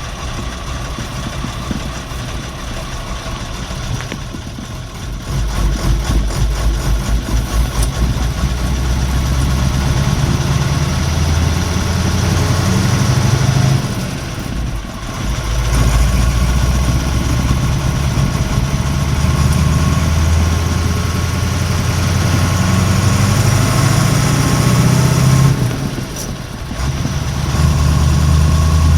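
Perkins V8.540 diesel engine of a Leyland Mastiff truck heard from inside the cab, pulling away and working up through the gears. The engine note rises about five seconds in and drops away briefly twice, about halfway and near the end, as the driver changes gear, then picks up again.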